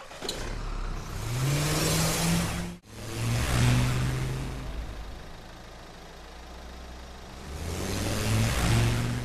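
Vehicle engine revving, with its pitch rising and the sound swelling and fading three times, and abrupt cuts between the passes.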